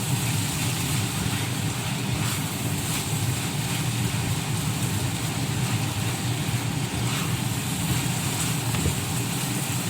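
Vegetable filling cooking in a pan on the stove: a steady noise with a low hum beneath it and a few faint ticks.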